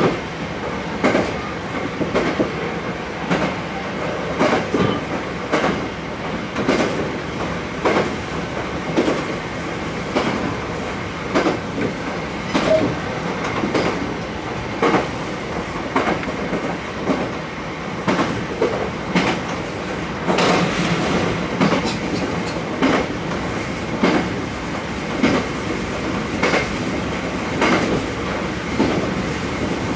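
Diesel railcar running along single track, heard from inside the cab. Its wheels click over rail joints about once a second, often in pairs, over the steady rumble of the running train.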